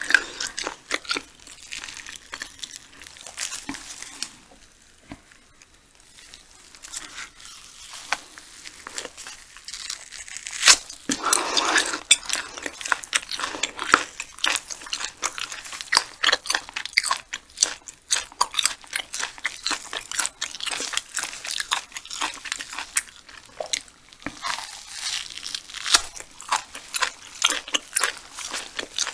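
Close-up eating sounds: a person biting and chewing food, with many small sharp crunches and wet mouth clicks, a quieter stretch early on and a louder bite about eleven seconds in.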